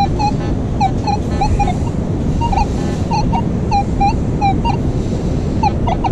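Minelab Manticore metal detector giving short chirping target tones, about two or three a second at uneven spacing, as the coil is swept over the sand. Heavy wind buffets the microphone underneath.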